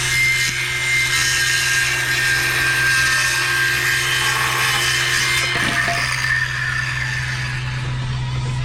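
A power tool cutting through wood, running steadily for about five and a half seconds and then stopping, its tone dropping as it winds down.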